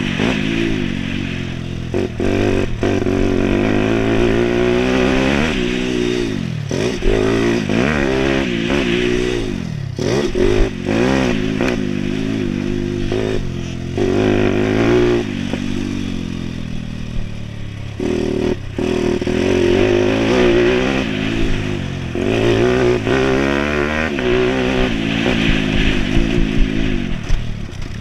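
Minibike with a YX140 140 cc four-stroke single-cylinder engine, ridden hard around a track: the engine revs up over and over and drops back between runs, with occasional clattering knocks. The rider describes the engine as bogging.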